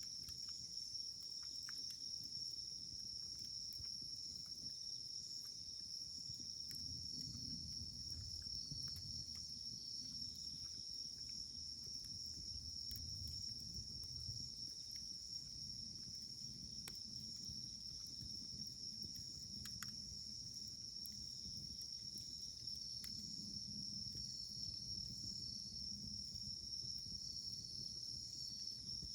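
A steady, high-pitched insect chorus, with a second fainter trill coming and going, over scattered faint pops and crackles of burning firewood. A low rumble joins in from about seven seconds in.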